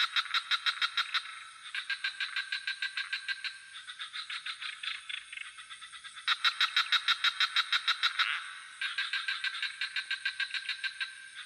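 Frog chorus: trains of rapid pulsed croaks, about six a second, in overlapping bouts of around two seconds each. Beneath them runs a steady, high-pitched insect trill.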